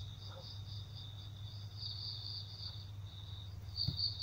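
Insects trilling steadily in a high, pulsing tone over a low, steady hum.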